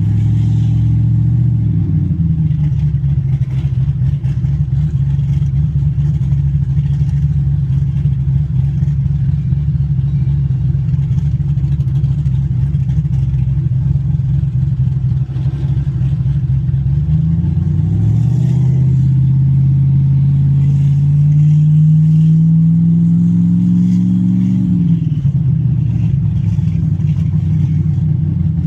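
Car engine running under way, a steady drone that dips in pitch at the start, holds, then pulls up steadily in pitch for several seconds about two-thirds of the way through before dropping back.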